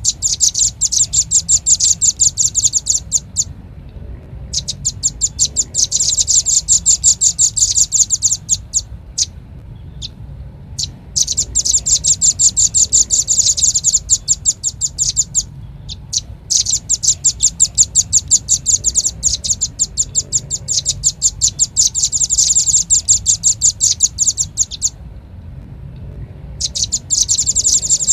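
Velvet-fronted nuthatch (red-billed 'rambatan') calling: fast trills of sharp, high chirps, about a dozen notes a second, in bouts of several seconds broken by short pauses.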